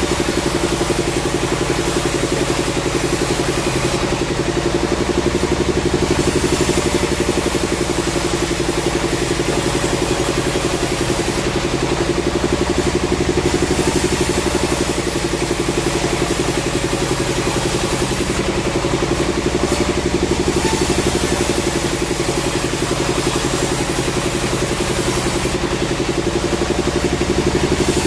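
Sawmill machinery running steadily with an engine-like drone, its high hiss easing briefly about every seven seconds.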